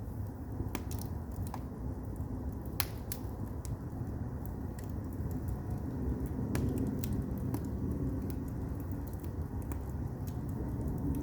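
Firewood burning in a Korean agungi firebox: a steady low rumble from the fire with scattered sharp crackles and pops, one louder pop about three seconds in.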